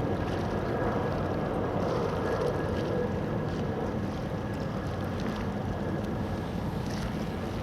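Wind rushing over the microphone, over a low, steady hum of ship engines on the water.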